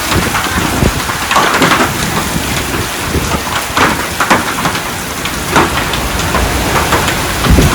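Heavy thunderstorm rain pouring down, a loud steady downpour with many sharp splashes and gusts through it. A deep low rumble comes near the end.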